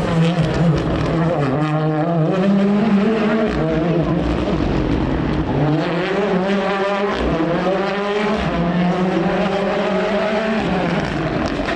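Rally car engine running hard on a stage, its revs rising and falling several times through gearchanges.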